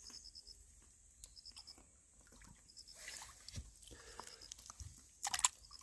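Faint high chirping from an insect: short runs of four or five quick pulses at one pitch, repeating about every second and a half. Soft scattered rustles run beneath, and a sharper knock comes about five seconds in.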